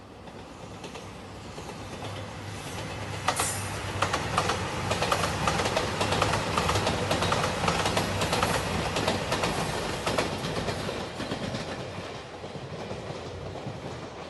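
JR Shikoku 2700 series diesel limited express train passing at speed, wheels clicking rapidly over the rail joints. It swells as it approaches, is loudest in the middle and fades away near the end.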